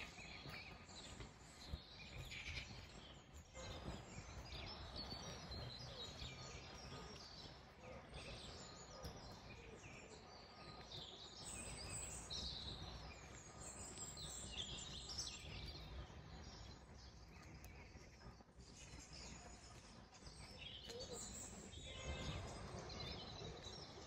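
Faint birds chirping and calling, many short scattered notes, over a low steady rumble of background noise.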